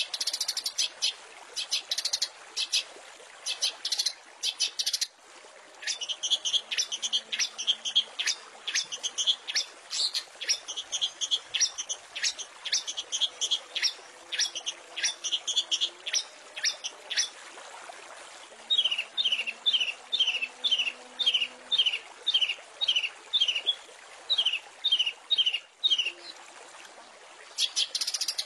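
Long-tailed shrike (cendet) singing a varied song of rapid, chattering bursts of high notes. From about two-thirds of the way in it switches to a run of quick downward-sliding whistles, about two a second, over a steady background hiss.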